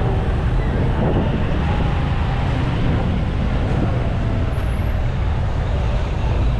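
Steady road noise heard from the back of a moving motorbike: engine and traffic sounds with a heavy low rumble.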